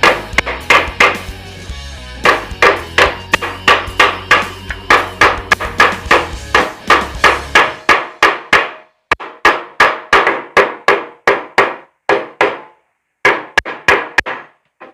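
Steady hammering on a dented sheet-metal motorcycle gas tank, worked against wood to straighten the dents: about three sharp blows a second, each ringing briefly. The blows come with short pauses in the second half.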